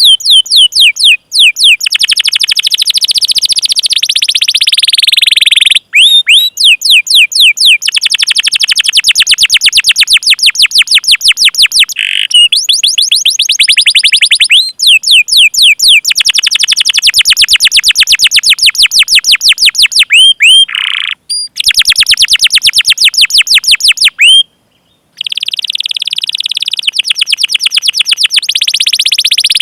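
Domestic canary singing long, fast rolls of repeated 'cuit cuit' chirps, each note sweeping down in pitch, run together at many notes a second. The rolls break off briefly a few times and pick up again, with the pitch of the notes shifting between rolls.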